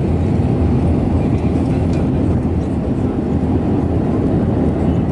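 Steady engine and airflow noise of an Airbus A320neo airliner, heard inside the passenger cabin.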